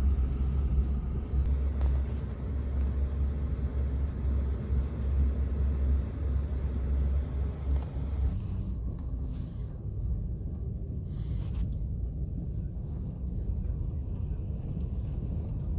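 Car driving, a steady low rumble of engine and tyres heard from inside the cabin; the deepest part of the rumble eases about eight seconds in.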